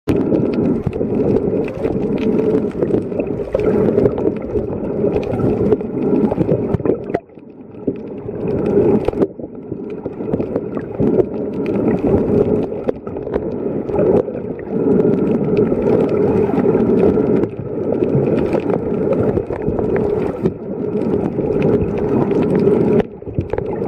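Muffled water noise heard underwater, a dense sloshing and bubbling with brief drops in level about seven and nine seconds in.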